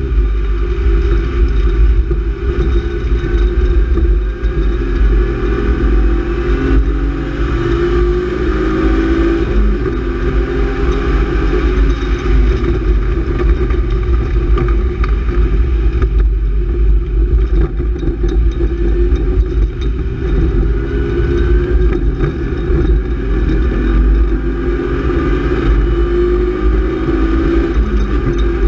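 BMW E36 328is's 2.8-litre straight-six with a cold air intake, pulling hard from inside the cabin, its pitch climbing and dropping back several times as it runs up through the revs and shifts. Under it is a steady hiss of tyres on a wet track.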